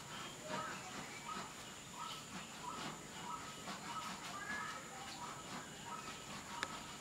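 Birds chirping in the background: short pitched calls repeated a few times a second, with a few faint clicks and scuffles mixed in.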